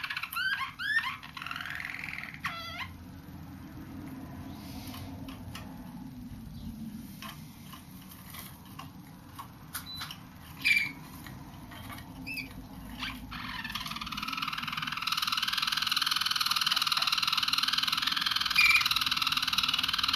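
Young roller canaries singing: a quick series of repeated rising glide notes at the start, then scattered short chirps and clicks, then from about two-thirds through a long continuous song tour that stops abruptly at the end. These are juvenile birds still forming new tours.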